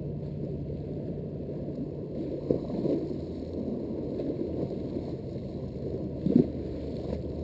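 Water sloshing and gurgling, with two sharper splashes about two and a half and six seconds in, the second the louder.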